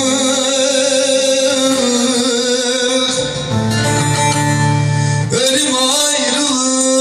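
Bağlama and acoustic guitar playing Turkish folk music, with held, wavering melodic notes over plucked accompaniment.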